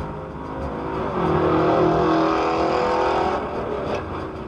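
Road vehicle noise, with a steady pitched tone that starts about a second in and stops after a couple of seconds.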